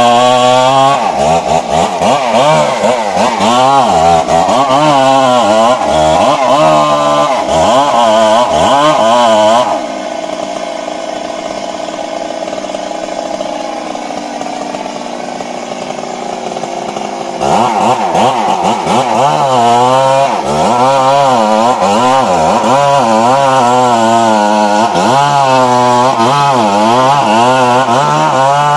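Stihl MS 382 two-stroke chainsaw cutting into a big tree trunk, its engine pitch wavering rapidly up and down under load. For about eight seconds midway it eases to a quieter, steadier note, then goes back to full, wavering cutting.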